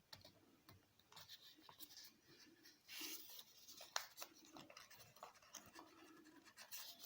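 Faint paper rustling and creasing as a sheet of origami paper is handled, folded and pressed flat by fingers, with scattered small clicks and a brief louder rustle about three seconds in.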